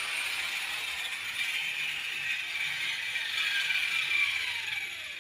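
Electric grinder cutting grooves into a brick wall, a steady gritty grinding; near the end it is switched off and its whine falls in pitch as the disc spins down.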